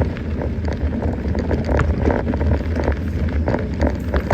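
Mountain bike rolling over a rough dirt track: a continuous crackle of tyres on gravel over a steady rumble of wind on the microphone.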